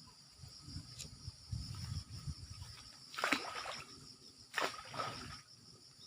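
Rustling as birdlime sticks are fixed to a branch, with two short, loud crackling knocks about three and four and a half seconds in, over steady high insect buzzing.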